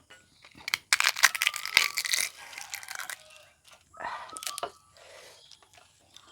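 Crisp food crunching and crackling close to the microphone: a loud, dense burst of crunches about a second in, then a second shorter burst later.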